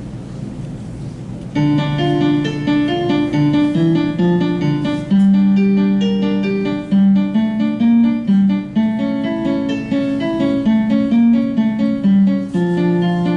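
Solo piano playing a piece of steady, distinct notes over a lower line, coming in sharply about a second and a half in after a short quiet stretch.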